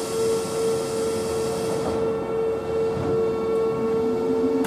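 Keihan 2400 series electric commuter train standing at the platform, about to depart: a steady hum, with a burst of air hiss that fades out in the first two seconds. Near the end a low whine starts rising as the train begins to pull away, and a sharp click comes right at the end.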